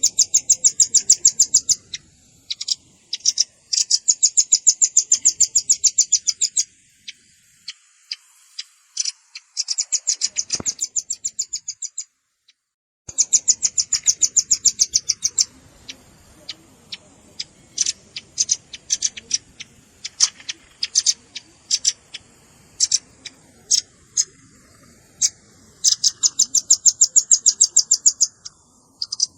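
Velvet-fronted nuthatch calls: fast, high trills of sharp notes in bursts of one to three seconds, with single chips in between. There is a brief dropout just after twelve seconds in.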